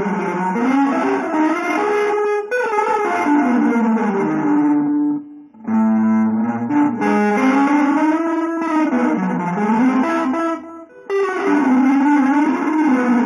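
Electric guitar playing sustained, singing notes whose pitch glides up and down, with two brief breaks about five and eleven seconds in.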